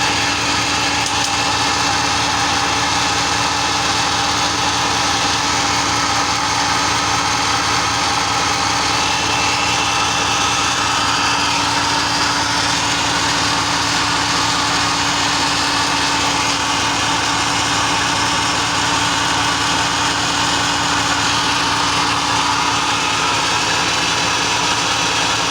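Ship's engine running steadily: a loud, even machinery noise with a constant hum that does not change.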